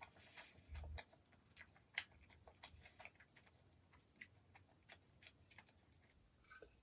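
Quiet close-up chewing: soft, irregular wet mouth clicks as food is eaten, one sharper click about two seconds in.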